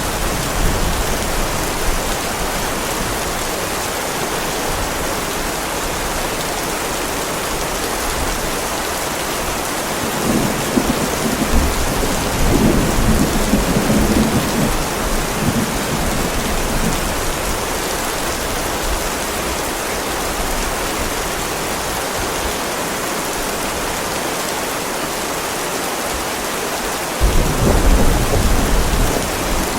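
Heavy rain falling steadily on a driveway, with two rolls of thunder rumbling low: one about a third of the way in, lasting several seconds, and another starting near the end.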